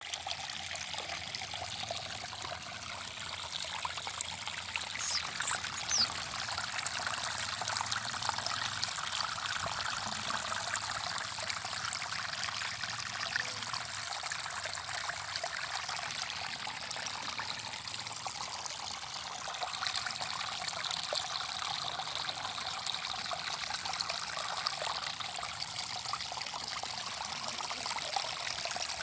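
Water trickling and splashing steadily, an even rushing hiss that holds throughout, with a brief high squeak about five to six seconds in.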